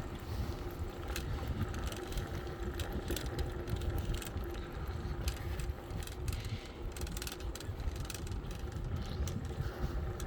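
Bicycle being ridden along a path: a steady low rumble of wind on the microphone, with frequent irregular ticks and clicks from the moving bike.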